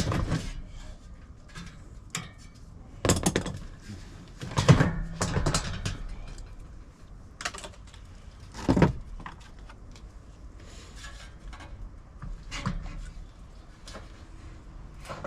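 Intermittent clatter of tools and metal parts being handled, with sharp knocks about 3, 5 and 9 seconds in and lighter clicks between.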